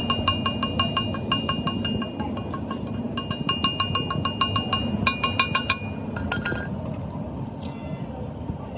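Rapid light metal-on-metal tapping, about five ringing clinks a second, which thins to a few scattered clinks about six seconds in, over a steady low rumble.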